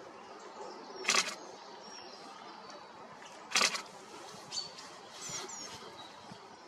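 Small birds giving short, faint high chirps, including a quick two-note call about five seconds in, over a steady background hiss. Two brief rustling bursts stand out louder, about a second in and again about three and a half seconds in.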